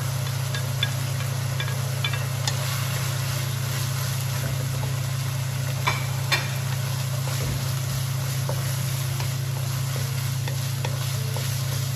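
Diced pork and red onion sizzling in a nonstick wok while a wooden spatula stirs, with a few sharp taps of the spatula on the pan, two of them close together about six seconds in. A steady low hum runs underneath.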